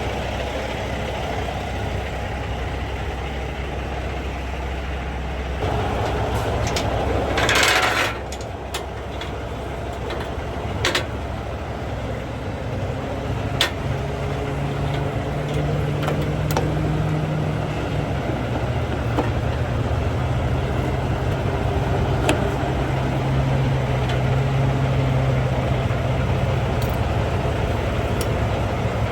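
Semi-truck diesel engine running at idle, with a short burst of hiss about 7 to 8 seconds in and a few sharp clicks.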